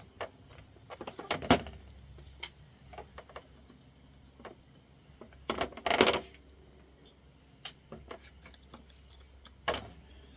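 Scattered clicks and metallic clinks of a screwdriver and small metal engine parts being handled while a small nitro RC engine is taken apart, with a louder clatter about six seconds in.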